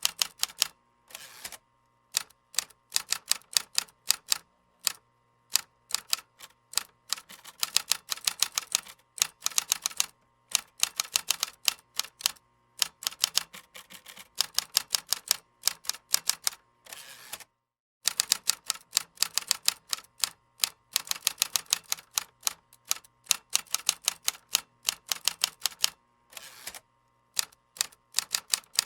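Typing on a computer keyboard: quick runs of crisp key clicks broken by short pauses, with a brief complete break a little past halfway.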